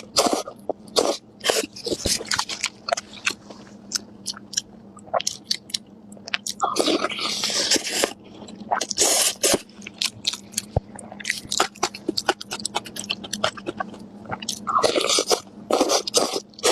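Close-miked chewing and biting of spicy pork chops: many quick wet clicks and crunches, with two longer crunching bites, one about seven seconds in and one near the end.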